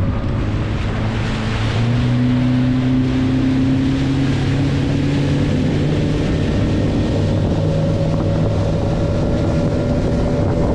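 Motorboat engine throttling up and then running at a steady speed, with water and wind noise.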